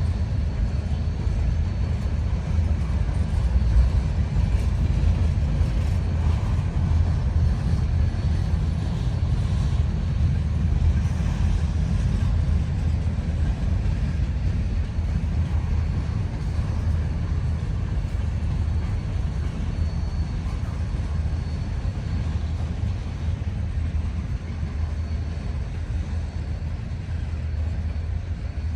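Freight train cars rolling past on the rails: a steady low rumble with a faint high tone over it, easing slightly toward the end.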